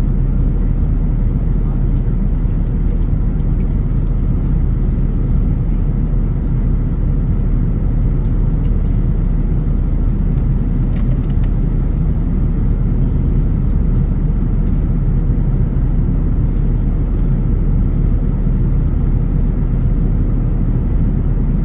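Steady, loud low rumble inside the cabin of an Airbus A330-900neo on approach: the Rolls-Royce Trent 7000 engines and the airflow over the fuselage, heard from a window seat.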